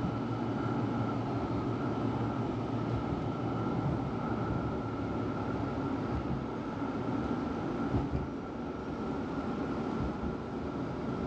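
A Melbourne tram running along its track, heard from inside the car: a steady rumble with a faint steady high tone over it, and a single knock about eight seconds in.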